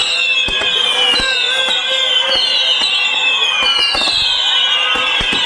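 Many whistling fireworks going off together, each shrill whistle falling in pitch, overlapping with a new one starting about every second, among scattered sharp cracks.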